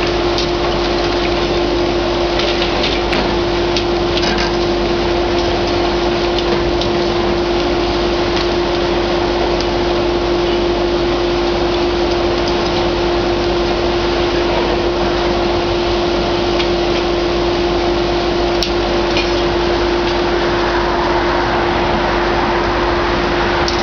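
Heavy tracked excavator's diesel engine and hydraulic pump running steadily under load, with a constant whine and a few faint knocks of debris.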